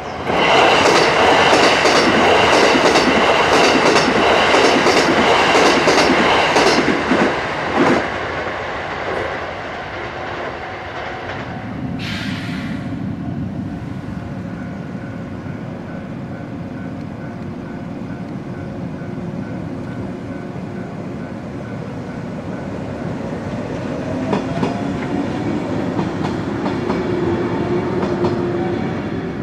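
A train passes over a level crossing: loud, rhythmic clatter of wheels over the rail joints for the first several seconds, dying away by about ten seconds in. The crossing alarm keeps ringing, and near the end a second train comes up and rolls across, the sound building again.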